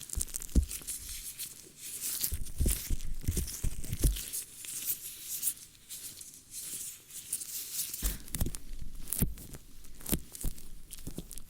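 Close-up ASMR ear-cleaning sounds: irregular scratching and crinkly rustling right at the microphone, with dull low thumps now and then.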